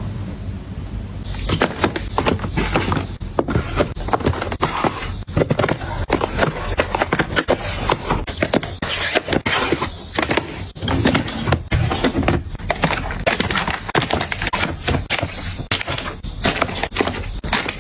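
Close, busy handling of small objects: a dense, irregular run of clicks, taps and knocks with scraping between them as things are picked up, moved and set down.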